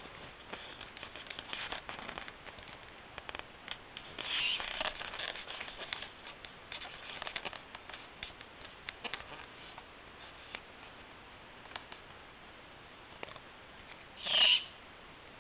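Light scratching and rustling throughout. A short, loud, harsh hiss breaks in near the end, and a weaker one comes about four seconds in.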